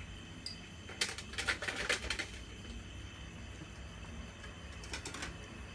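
Dogs eating from their bowls: quick runs of clicking and clatter at about a second in and again near the end.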